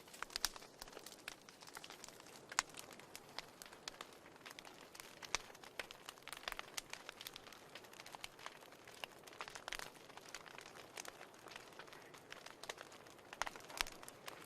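Wood fire crackling in a fireplace: irregular sharp pops and snaps over a soft hiss, with a quick cluster of louder pops near the end.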